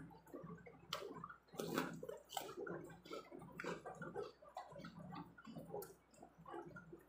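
Close-up chewing of crisp shrimp crackers: irregular sharp crunches and crackles mixed with wet mouth sounds, the loudest crunch just before two seconds in.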